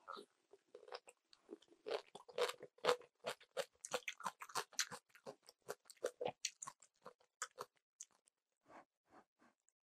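Close-miked crunchy chewing of napa-cabbage kimchi: a quick run of crisp crunches that thins out to a few soft ones near the end.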